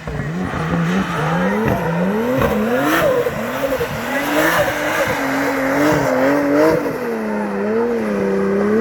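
A drift car's engine revving up and down again and again as the throttle is worked through a run, over a steady hiss of tyres and wet track.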